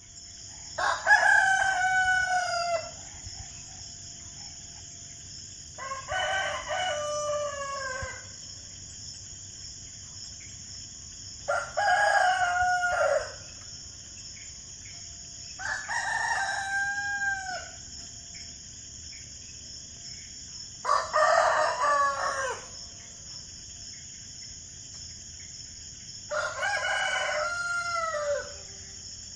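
Rooster crowing six times, one cock-a-doodle-doo about every five seconds, each ending on a drawn-out falling note. A steady high hiss runs underneath.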